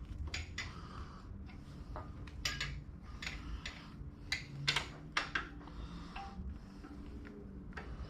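Irregular small clicks, taps and rattles of hands fitting a clip and connectors while installing an ignition coil on a motorcycle, the sharpest clicks in the middle, over a low steady hum.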